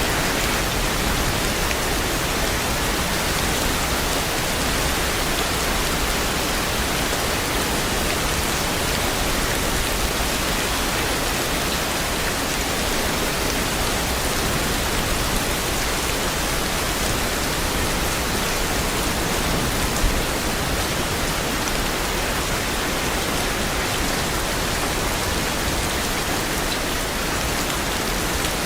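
Steady rain falling, an even hiss of many drops on a surface, with one sharper tap about two-thirds of the way through.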